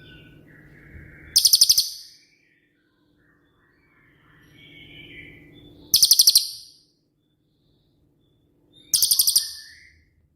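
A cililin bird singing its 'shooting' song type: three short, loud, very high-pitched rapid trills, each about half a second long, spaced a few seconds apart. Softer chirps and a faint low hum can be heard between them.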